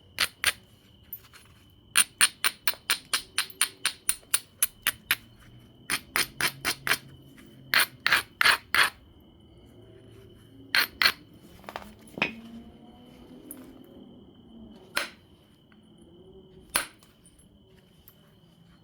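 Knapping an obsidian biface: sharp clicks of the tool against the stone come in quick runs of about five a second, then as a few single, spaced-out strikes near the end. A faint steady high tone runs underneath.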